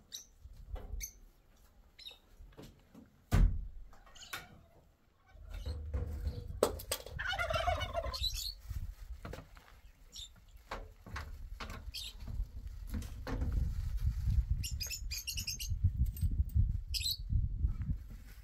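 A wavering animal call lasting about a second, midway through, among scattered knocks and a low rumble.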